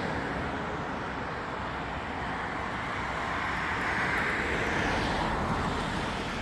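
Steady road traffic noise, swelling a little as a vehicle passes about four seconds in.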